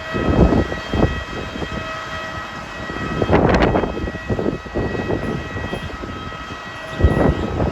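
Strong wind gusting against the microphone over the steady high whine of a jet airliner on the ground during de-icing, with a louder rushing gust about halfway through.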